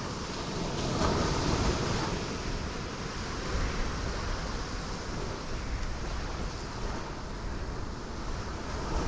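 Ocean waves breaking on rocks, a continuous wash of surf that swells louder about a second in.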